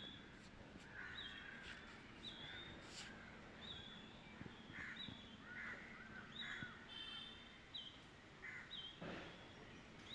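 Faint background birds calling: a short, high chirp repeated about once a second, with scattered lower, harsher calls between.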